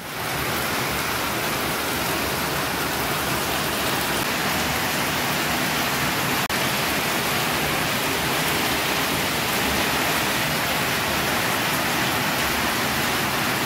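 Heavy rain pouring onto a flat concrete rooftop, a steady dense hiss, broken by a momentary drop about six and a half seconds in.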